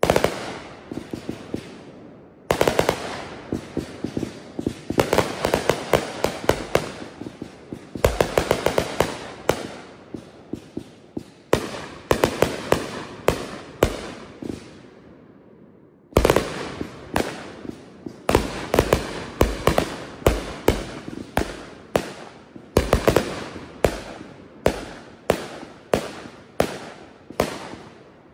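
Aerial fireworks firing in fast volleys of sharp bangs and bursts. About halfway through they die away for a moment, then start again, ending in a steady run of bangs at about two a second.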